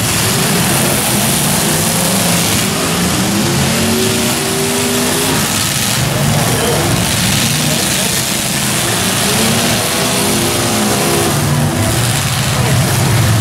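Demolition derby cars' engines revving hard, their pitch rising and falling several times as the cars accelerate and back up in the arena, over a steady din of crowd voices.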